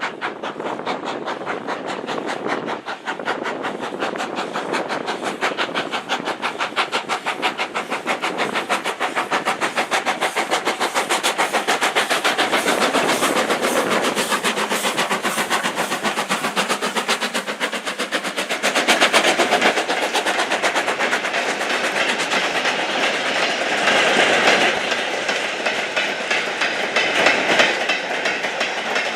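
Steam-hauled heritage train running, with a fast, even rhythm of beats that carries on throughout.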